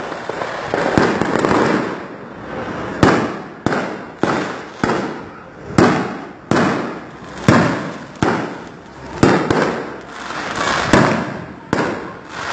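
Aerial firework shells bursting in quick succession, a sharp bang about once a second, each trailing off, with denser runs of bursts about a second in and near the end.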